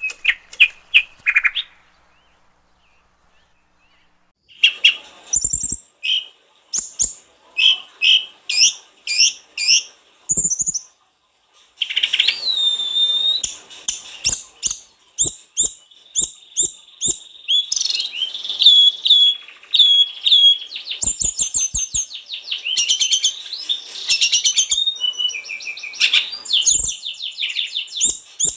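A sulingan gunung (tledekan gunung), a small mountain songbird, singing energetically in long runs of quick, high whistled notes and trills, with a pause of about two seconds near the start. A few soft knocks are heard under the song.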